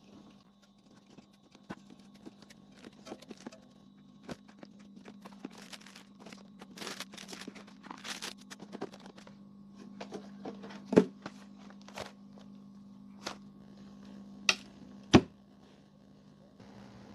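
Handling noise: scattered clicks and knocks, a stretch of rustling about halfway through, and two sharp knocks later on, over a steady low hum.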